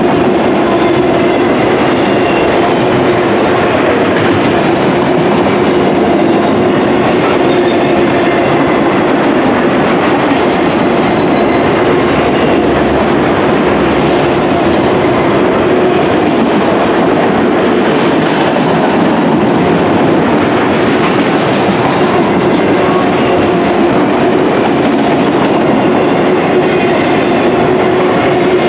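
Freight train's autorack cars rolling past close by, wheels clacking over the rails in a steady, loud rolling noise with a constant hum underneath.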